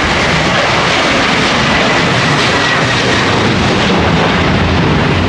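Jet airliner engines running, a loud, steady rumble with a faint high whine over it.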